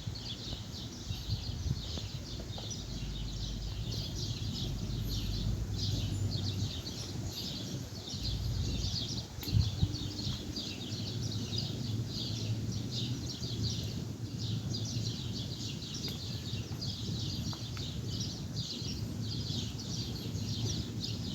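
Many birds chirping steadily in short, rapid notes, over a low background rumble.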